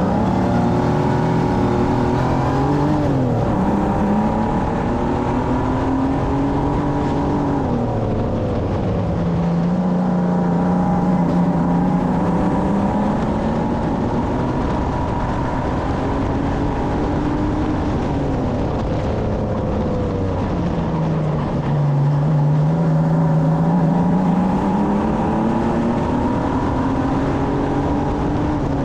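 Racing stock car engine heard on board, running hard under load, its pitch rising as it accelerates and dropping as it lifts off, in repeating cycles as it laps the oval.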